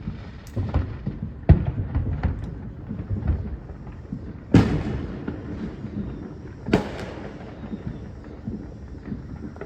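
Fireworks going off: a string of sharp bangs and cracks, with two loud booms about halfway through and a short echo after each.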